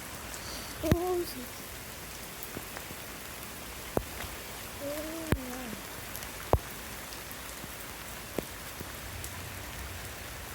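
Steady rain falling, an even hiss, with heavy drops striking close by now and then: about five sharp taps.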